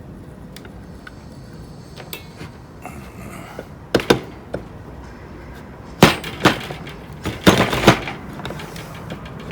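Sharp clicks and knocks of hard fan parts and tools being handled and set down during reassembly: a pair of knocks about four seconds in, then a quicker clatter of hits from about six to eight seconds.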